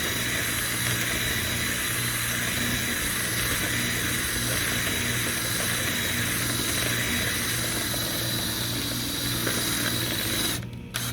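Drill spinning a rotary dryer-vent cleaning brush through the vent duct, running steadily with a hissing rush, then stopping abruptly about ten and a half seconds in.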